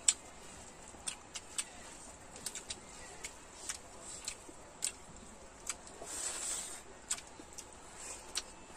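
Close-miked mukbang eating sounds: irregular wet clicks and smacks of chewing rice and fried egg eaten by hand, about two a second, with a short hissy rustle about six seconds in.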